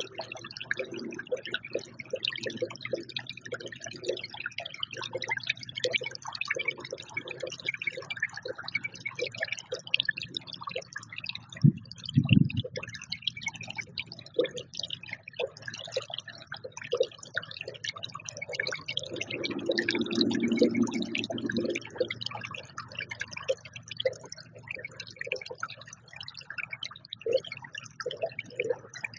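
Birds feeding at a bird feeder: a steady run of irregular pecking and tapping clicks, with two low thumps about twelve seconds in.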